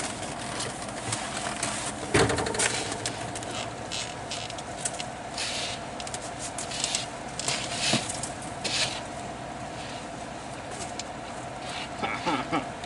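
Snow being cleared off a vehicle's windshield by hand: irregular brushing and scraping swipes, with one louder thump about two seconds in, over the steady hum of the running vehicle.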